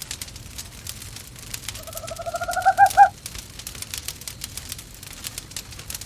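Wood fire crackling in a fireplace, with an owl calling once about two seconds in. The call is a quick run of notes that rises slightly in pitch and grows louder over about a second.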